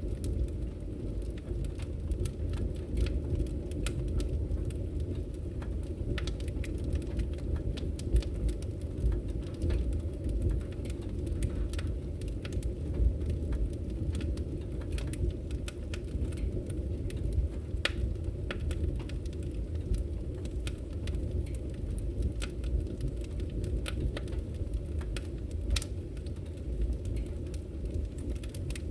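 Wood fire burning in a fireplace: a steady low rumble of flames with scattered, irregular sharp crackles and pops from the burning logs.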